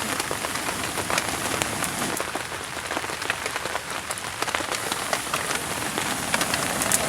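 Small campfire of twigs and kindling crackling and popping with an irregular patter of sharp snaps over a steady hiss as the fire is revived.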